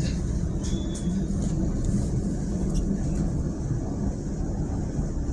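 Steady running rumble of a Queensland Rail electric suburban train heard from inside the carriage, wheels on track at speed, with a few short high-pitched ticks over it.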